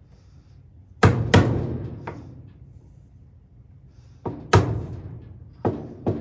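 A wood chisel being struck to cut a recess into an MDF knob blank: sharp knocks in pairs, a pair about a second in, another just past four seconds, and two more near the end.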